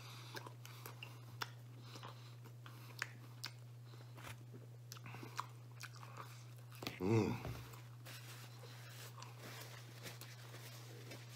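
A man chewing and biting pizza crust close to the microphone: small wet clicks and smacks of the mouth scattered throughout. About seven seconds in, a short, louder low voiced sound comes from him. A steady low hum runs underneath.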